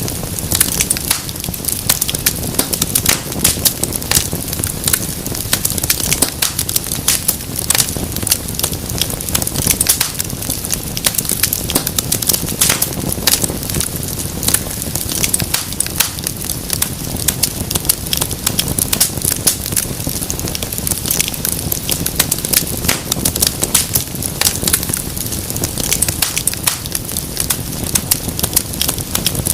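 Fire burning in a fireplace, crackling steadily with many sharp, irregular pops over a low rumble of flame.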